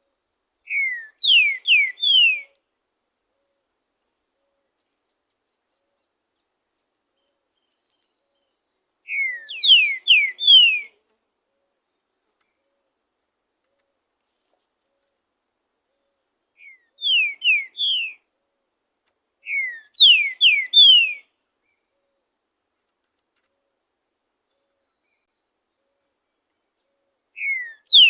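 Green-winged saltator (trinca-ferro) singing short, loud phrases of three or four clear whistled notes, each sliding downward. The phrases are separated by gaps of several seconds: four full phrases, with a fifth starting right at the end.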